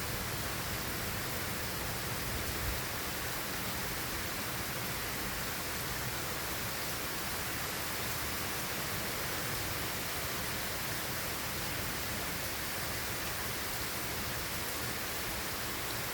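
Steady rain from a thunderstorm, an even hiss with no breaks.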